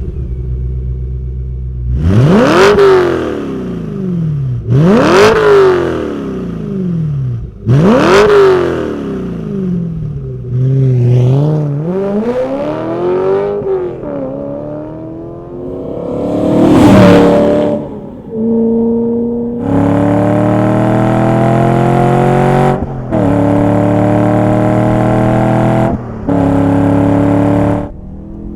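BMW E9X M3's 4.0-litre V8 through a Borla cat-back exhaust, blipped three times in quick revs that climb and fall. It then runs through slower sweeps and a string of steady high-revving notes broken by short pauses.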